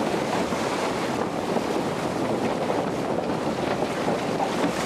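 Steady drone and rush of a Cessna 172's piston engine, propeller and airflow, heard inside the cabin in flight.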